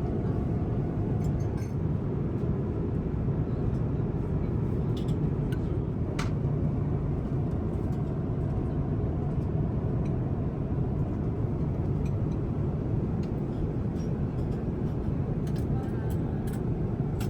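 Steady cabin noise of an Airbus A350-1000 in flight: an even, low rush of air and engines, with a few faint clicks and one clearer tick about six seconds in.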